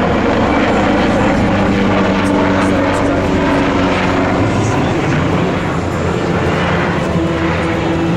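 Leonardo AW249 Fenice twin-turbine attack helicopter in display flight. Its rotor and turbine noise is loud and steady, and its tones shift slowly in pitch as it manoeuvres.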